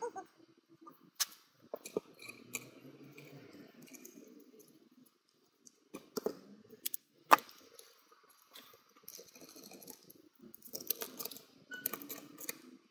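Small metal and plastic parts of a gear-shifting actuator being handled and fitted: scattered clicks, clinks and rustles, with one sharp knock about seven seconds in.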